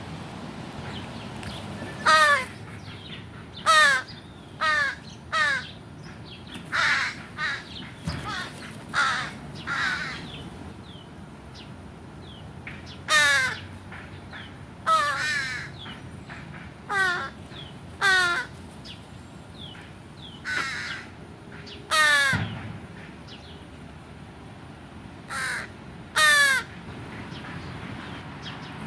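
American crows cawing repeatedly, with about eighteen short, harsh caws coming in loose groups over a steady background hum.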